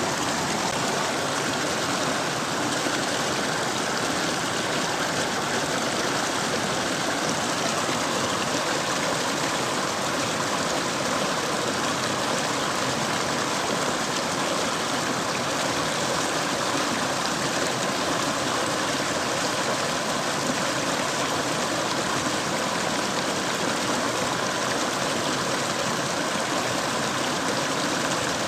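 Mountain stream rushing over rocks: a steady, even flow of water.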